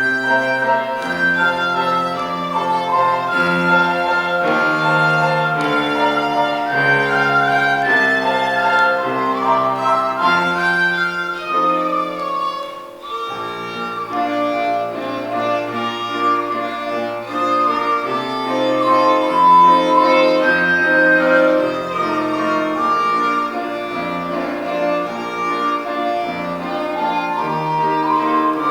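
Small ensemble playing a waltz live: a violin melody over held cello bass notes, with a brief drop in the music about halfway through.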